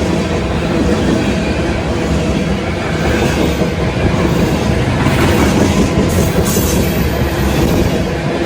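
A train rolling past close by: a loud, steady rumble of steel wheels on the rails, with clickety-clack over the rail joints. A brighter, higher hiss joins in from about six seconds in.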